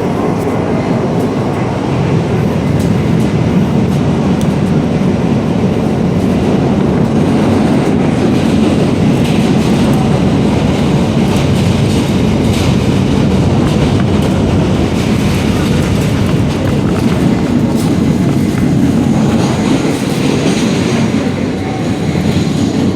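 Subway train running on its rails: a loud, steady rumble with some clicks of wheels over the rail joints.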